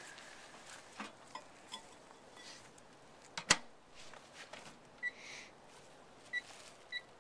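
Microwave oven being readied: a few light clicks, then a sharp snap about three and a half seconds in like the door latching shut, followed by three short high keypad beeps from about five seconds in.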